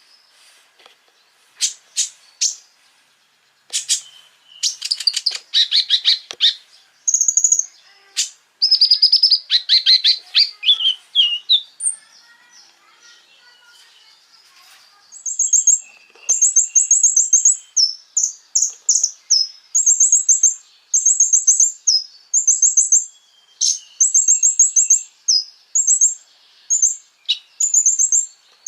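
A small songbird, the konin, singing: a few sharp chips, then bursts of rapid chattering trills, then a run of short, high, trilled phrases repeated about once a second.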